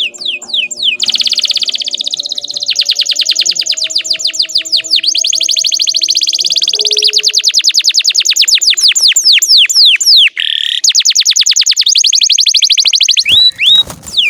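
Domestic canary singing a long song of rapid trills: runs of fast repeated downward-sweeping notes that change speed from one run to the next, with a brief break about ten seconds in and a couple of slower swooping notes near the end.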